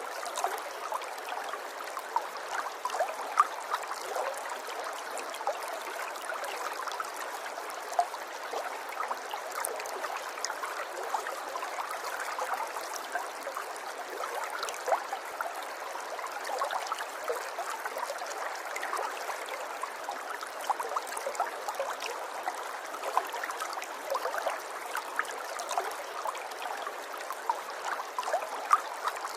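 River water flowing and trickling steadily, with many small splashes and gurgles spread through it and no low rumble.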